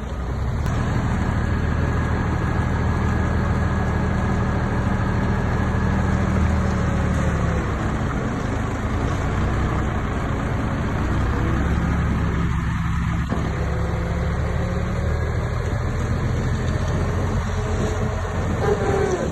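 Heavy diesel engine of earthmoving machinery running steadily. Its pitch dips about seven or eight seconds in and rises again around twelve seconds.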